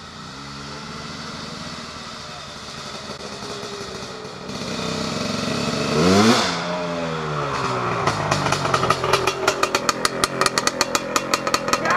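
Two-stroke dirt bike engine. Its note climbs sharply to a peak about six seconds in, then falls away, and from about eight seconds on it settles into a fast, even popping beat.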